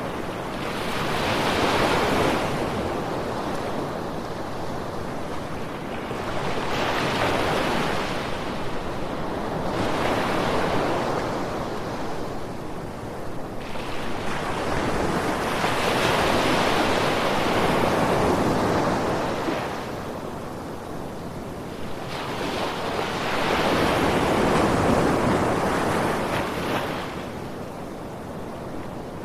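Ocean surf: waves breaking and washing in, the rushing sound rising and falling in slow swells every five to eight seconds.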